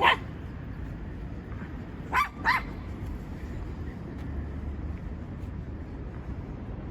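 Mame-shiba (small Shiba Inu) barking in short, high yips: one at the very start, then two in quick succession about two seconds in.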